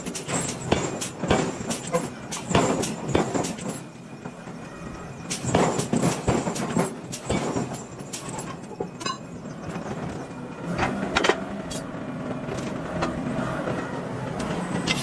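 Irregular metal clanks and knocks over steady machinery noise in a wheel-forging shop, the knocks coming thick for the first half and thinning out after.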